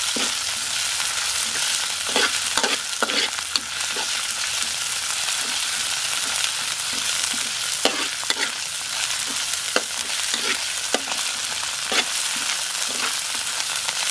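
Sliced garlic and chilli sizzling in hot oil in a steel wok, stirred with a metal spatula that scrapes and clinks against the pan at irregular moments over a steady hiss.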